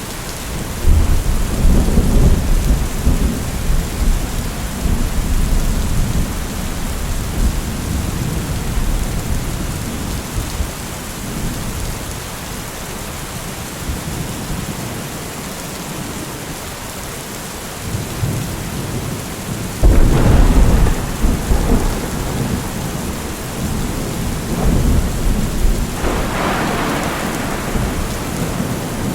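Steady heavy rain with thunder: a long low rolling rumble starts about a second in and fades over several seconds, then two sudden claps come later, the last one crackling higher before rumbling away.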